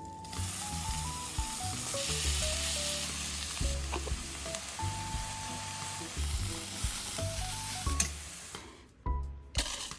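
Food sizzling in a hot frying pan, the hiss starting just after the beginning and dying away near the end, over light background music.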